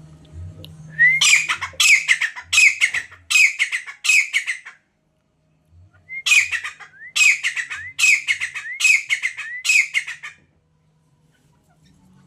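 Grey francolin calling: two bouts of loud, harsh repeated notes, about two a second, each bout lasting about four seconds with a short pause between.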